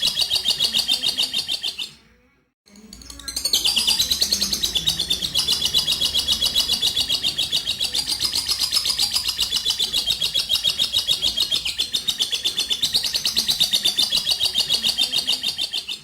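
A lovebird's ngekek: a long run of rapid, high, evenly repeated chattering notes. It breaks off briefly about two seconds in, then resumes and goes on unbroken.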